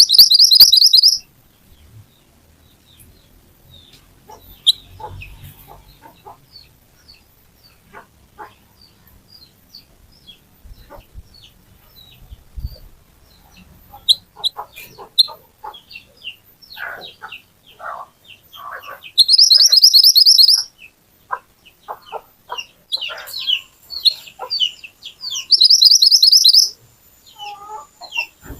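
Mantenan songbird singing: three loud bursts of a rapid, high, buzzy trill about a second and a half each, near the start, about two-thirds in and near the end, with scattered short chirps and calls between.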